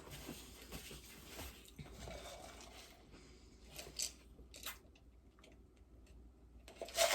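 Chewing a crunchy tostada shell: soft crunching and wet mouth sounds, with a couple of sharper crunches about four seconds in.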